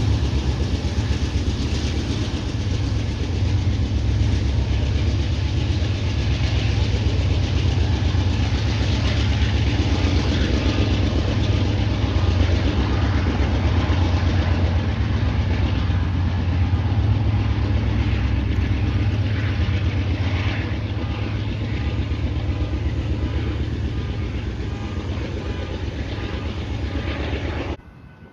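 A diesel-hauled train running past close by: a steady low locomotive engine drone under the rumble and rattle of rail cars on the track. The sound cuts off abruptly just before the end.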